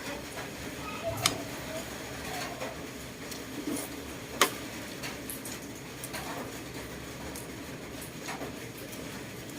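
Eating at the table: a utensil clicks against a dish, with two sharp clinks about a second in and near the middle, and lighter ticks and mouth sounds between them.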